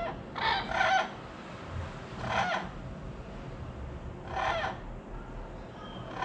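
A bird calling: short, harsh squawks, two in quick succession, then single calls about two seconds apart.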